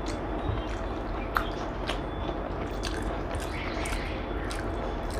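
Close-miked eating sounds: wet chewing and smacking with scattered mouth clicks, and one sharper click about a second and a half in.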